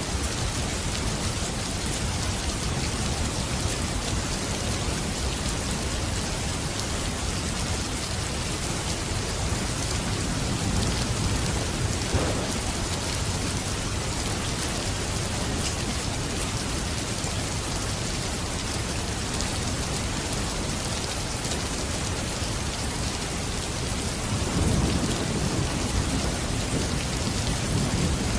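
Steady heavy rain falling, with low thunder rumbling twice: about eleven seconds in and again near the end.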